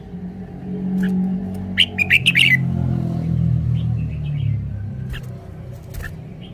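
Red-whiskered bulbul giving a short burst of bright, quick song notes about two seconds in, with a few sharp ticks around it. Under it, a low hum swells and fades.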